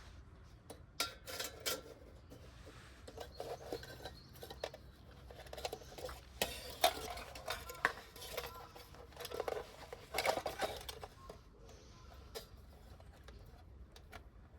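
Camp cookware and utensils clinking and clattering as they are handled, in short irregular bursts with pauses between.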